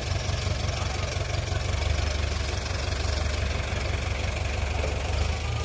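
Powertrac tractor's diesel engine running steadily at low revs.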